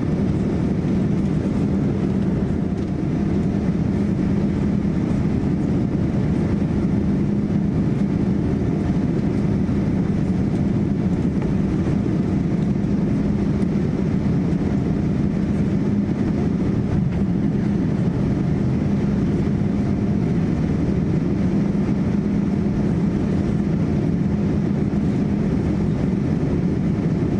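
Steady engine and airflow noise inside the cabin of a Boeing 787-9 climbing out after takeoff, with a constant low hum beneath it.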